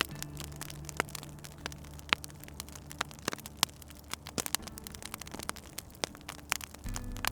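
Wood fire crackling, with irregular sharp pops and snaps several times a second. A low steady hum runs underneath.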